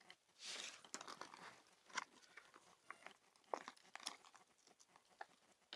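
Faint crinkling and crackling of a plastic food package being handled: a rustle about half a second in, then scattered sharp clicks.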